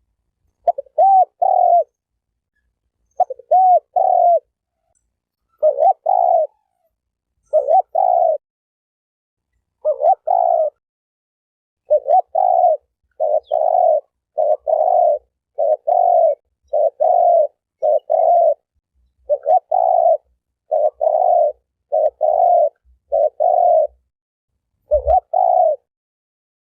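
Spotted dove cooing: short phrases of two or three coos repeated about every one to two seconds, coming closer together after about twelve seconds, with dead silence between phrases. A short low thump about twenty-five seconds in.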